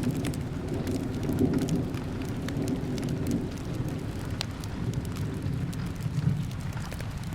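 Steady rain ambience with a low rumble that eases toward the end, dotted with scattered sharp ticks and crackles of a fireplace.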